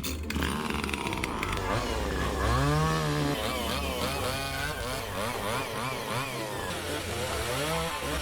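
A small engine running and revving, its pitch rising and falling over and over.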